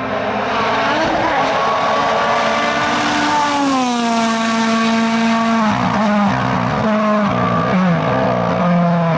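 Rally car engine running hard at high revs, its pitch gliding down about four seconds in, then rising and dropping in quick steps as it shifts gears.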